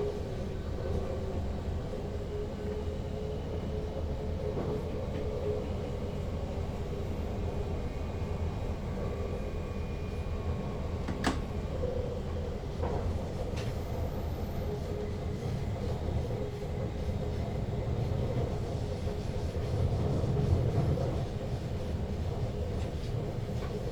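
NS Sprinter Lighttrain (SLT) electric train running, heard from inside the driver's cab: a steady rumble with faint steady tones. A sharp click sounds about eleven seconds in, and a smaller one a second and a half later.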